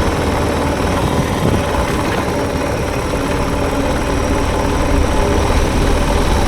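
Suzuki DR650 dual-sport motorcycle's single-cylinder engine running steadily while riding.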